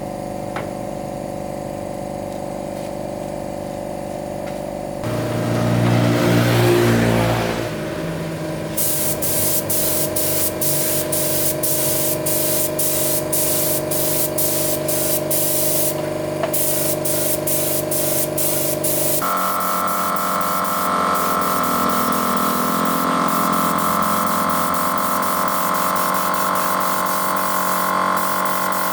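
Spray gun hissing in short, rapid pulses over a steady machine hum, typical of an air compressor running.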